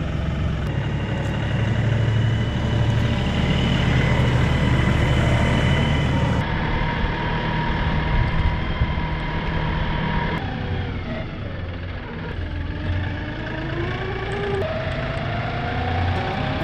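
A 35 hp LS XR3135 tractor's engine running steadily while driving, its pitch climbing over the last few seconds as it speeds up.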